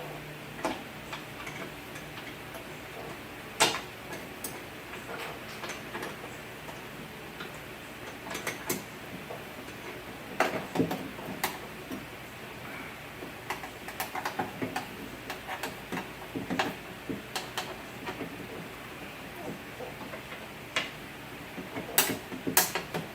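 Irregular clicks, taps and clunks of hand tools and metal parts being worked inside a car door, with one sharp knock about three and a half seconds in and bursts of clattering in the middle and near the end.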